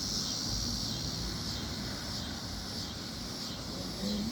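Cicadas singing in a steady, high, buzzing chorus that eases off a little after the first second or two, over a low rumble.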